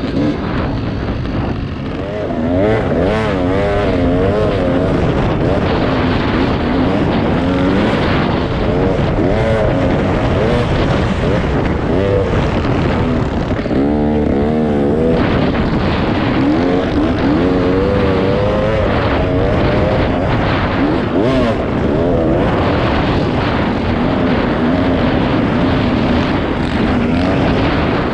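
Dirt bike engine being ridden, revving up and falling back again and again, its pitch rising and dropping with the throttle.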